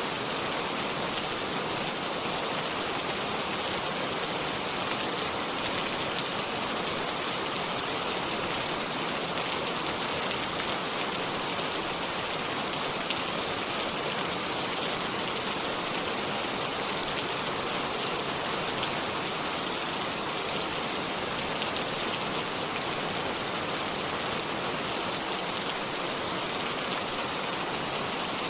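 Steady rainfall: an even hiss of many drops that holds level throughout, with no breaks or thunder.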